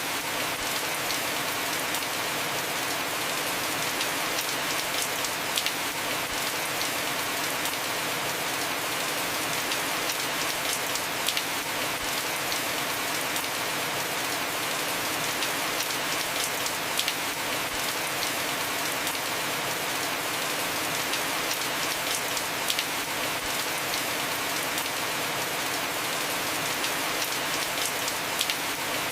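Heavy rain falling steadily on a house roof: a dense, even hiss of drops, with an occasional sharper drop tick every few seconds.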